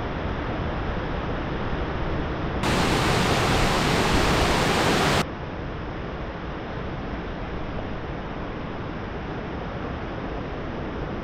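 Small waterfall rushing steadily, an even hiss of falling water. For a couple of seconds in the middle it is louder and brighter, starting and stopping abruptly.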